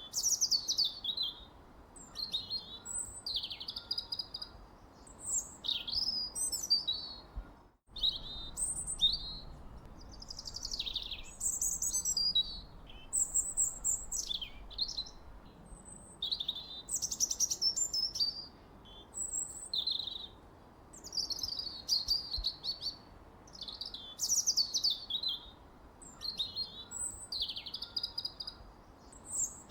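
Songbird singing: a steady run of short whistled phrases, many sweeping down in pitch, one after another every second or so, over a faint hiss. The sound cuts out for an instant about eight seconds in.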